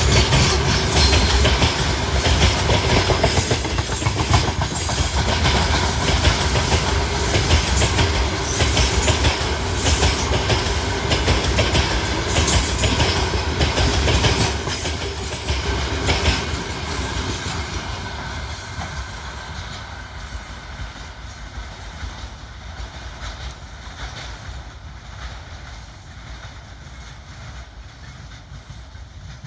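Loaded freight wagons rolling past, wheels clattering over the rail joints with a thin high wheel squeal. From about halfway through, the sound fades steadily as the train moves away.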